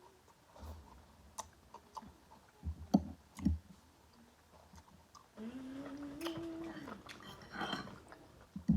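A person eating: a few clicks and knocks and chewing, with a drawn-out hummed "mmm" lasting about a second and a half midway.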